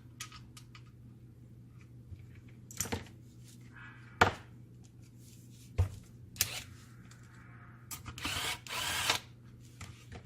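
Short runs of a small power tool, the longest just under a second near the end, among sharp clicks and knocks of copier fuser parts being handled, over a steady low hum.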